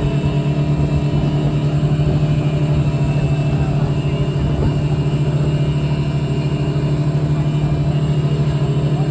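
Motorboat engine running steadily at a constant speed, with an even throb.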